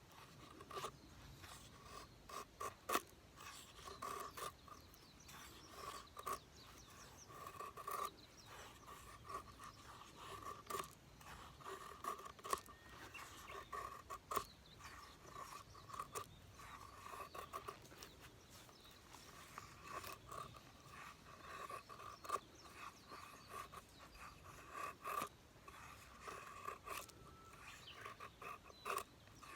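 Repeated scraping strokes, roughly one a second, with scattered sharp clicks in between.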